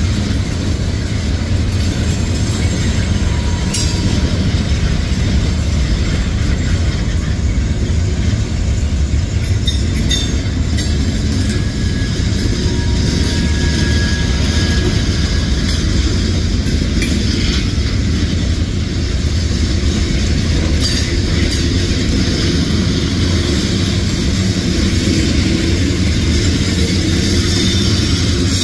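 Freight cars of a CSX manifest train (tank cars, a gondola, covered hoppers) rolling past: a steady loud rumble of steel wheels on rail. A few sharp clicks from the wheels crossing rail joints, and a faint high wheel squeal about twelve seconds in.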